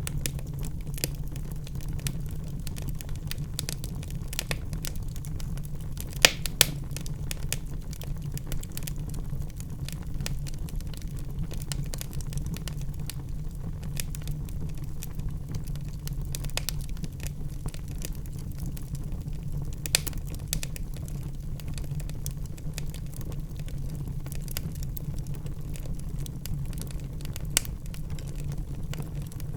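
Wood fire crackling in a fireplace: a steady low rumble of burning logs with many small snaps and pops, a few louder pops about six seconds in, around twenty seconds and near the end.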